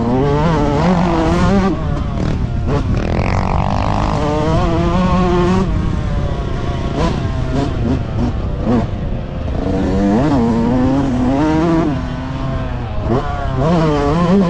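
Several motocross bike engines revving at once, their pitch rising and falling over and over as the riders work the throttle.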